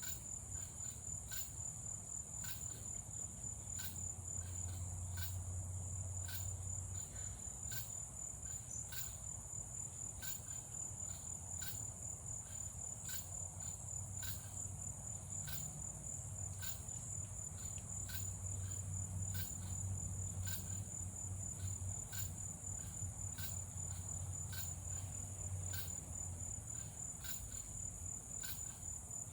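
Evening insect chorus of crickets: a steady high trill with sharp chirps repeating a little more than once a second, over a faint low hum.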